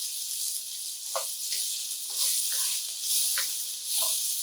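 Red pepper sautéing in hot oil in a frying pan: a steady sizzle with scattered small pops.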